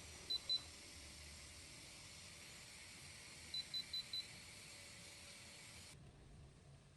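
Short, high electronic beeps: two near the start, then four in quick succession about three and a half seconds in, over a steady faint hiss.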